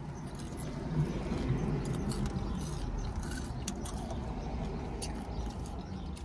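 Close-up chewing and crunching of potato chips and a sub sandwich, with scattered sharp crunches over a low rumble.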